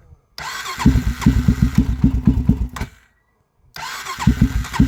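Honda 400EX quad's electric starter cranking its single-cylinder four-stroke engine in two bursts, with a gap between them, about five compression beats a second over the starter whine. The cold engine is not catching.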